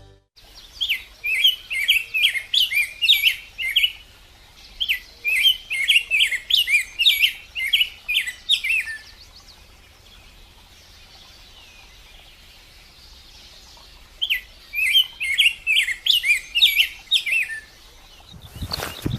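A songbird singing in bouts of rapid, high chirps, each bout lasting three to four seconds. There are three bouts, with a pause of about five seconds before the last. A sudden loud noise comes just before the end.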